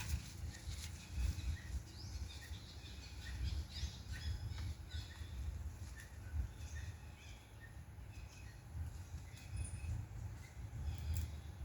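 Many short, high chirps and calls, a few rising quickly in pitch, densest in the first half, over a steady low rumble.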